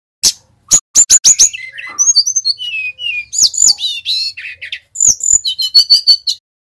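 Brown-chested jungle flycatcher singing: a fast string of sharp, high chipping notes, then clear whistled notes that slide down in pitch, ending in a quick run of repeated notes.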